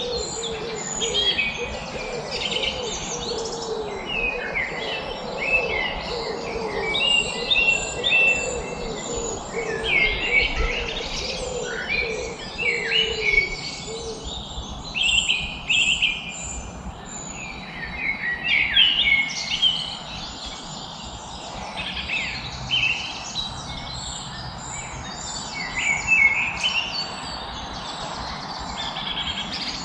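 Several birds singing and chirping together: overlapping quick chirps and trills throughout, with a lower warbling call in the first half, over a steady background hiss.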